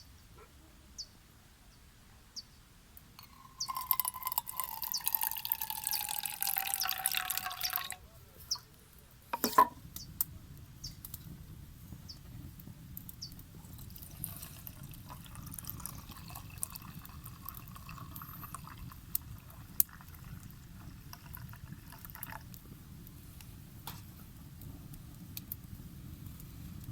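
Liquid poured from a bottle for about four seconds, its pitch falling as it pours, then a sharp knock. After that comes a low steady rumble with scattered small crackles.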